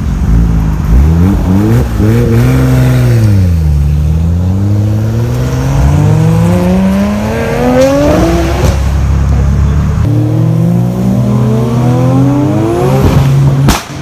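Performance car engine revving hard and accelerating, its pitch climbing and dropping again several times as it pulls through the gears. It cuts off sharply near the end.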